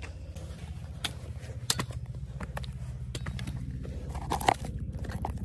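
Footsteps, scuffs and scattered clicks on a rocky mountain trail over a steady low rumble.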